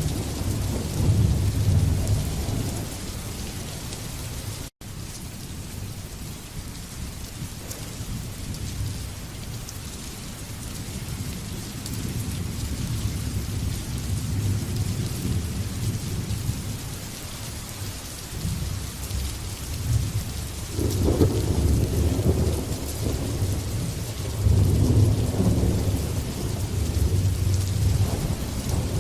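Steady rain hissing, with thunder rolling low underneath. The thunder swells near the start and again in two long rumbles in the last third. The sound cuts out for an instant about five seconds in.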